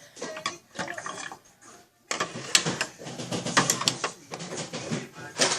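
Utensil clattering and scraping against a bowl as a homemade mixture is stirred: quick irregular clicks and rattles, pausing briefly about two seconds in before getting busier.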